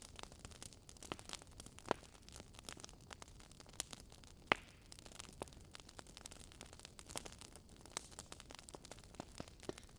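Campfire crackling: wood burning with a steady faint hiss and many irregular small pops and snaps, one sharper pop about halfway through.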